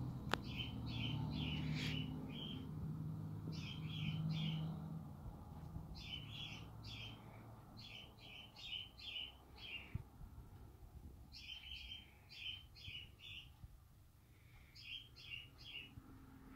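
A songbird singing outside, repeating a short phrase of quick high chirps again and again with pauses of one to a few seconds between phrases. A low rumble sits under the first few seconds.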